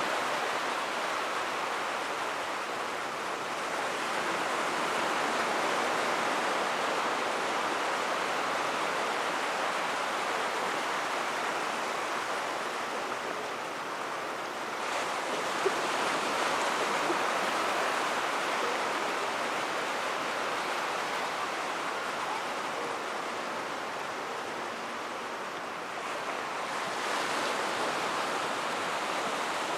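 Surf washing onto the beach: a steady rushing noise that swells gently every several seconds, with no firework bursts.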